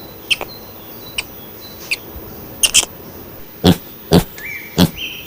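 Squirrel calling in short, sharp chirps, one after another, growing louder in the second half.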